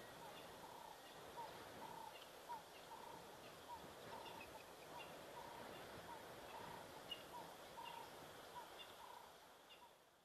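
Faint outdoor ambience with a bird repeating a short call about twice a second, with fainter higher chirps among it; the sound fades out near the end.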